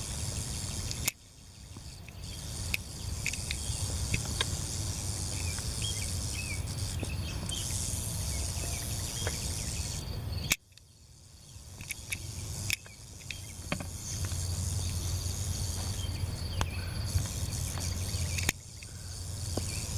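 Outdoor prairie ambience: a steady high chorus of crickets and other insects over a low steady hum, with a few faint clicks. The sound drops out suddenly three times, about a second in, about halfway and near the end, and builds back each time.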